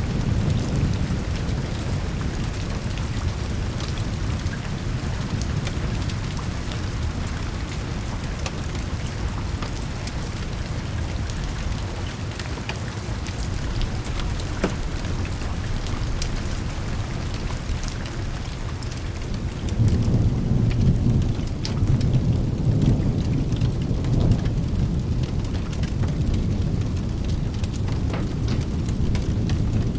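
Steady rain with a low, rolling thunder rumble that swells about twenty seconds in. Scattered small clicks sound through it.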